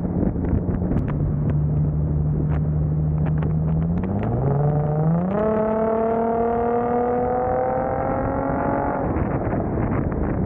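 Infiniti G37's 3.7-litre V6 running at steady cruise, then, about four seconds in, its revs climbing steeply as the car is accelerated hard for about four seconds. Near the end the throttle comes off and the note settles back to a steady drone, with tyre and wind noise underneath.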